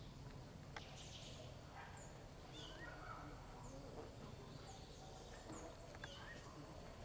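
Faint bird chirps: short, scattered calls that slide in pitch, a few every second or two, over a low background hum.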